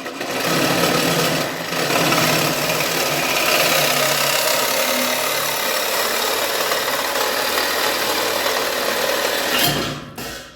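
Power cutting tool running steadily as it cuts through the tractor's rusty steel exhaust pipe, a loud, even rasp with a low motor hum underneath, stopping near the end.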